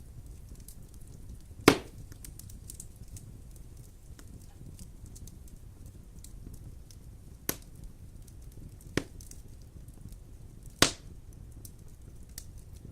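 Wood fire burning in a fireplace, with a steady low sound of the flames and faint crackles throughout. Four loud, sharp pops stand out: one about two seconds in, two more around seven and nine seconds, and the loudest near eleven seconds.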